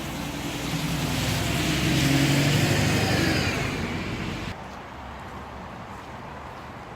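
A motor vehicle driving past close by on a wet road: engine drone and tyre hiss swell to a peak about two seconds in, then cut off suddenly about four and a half seconds in, leaving quieter background noise.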